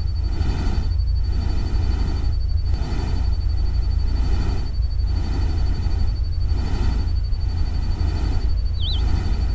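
Steady nature-sound ambience: a continuous deep rumble under a hiss like rain or running water, which dips briefly about every one to two seconds. A thin, steady high tone runs throughout, and a single short bird chirp sounds near the end.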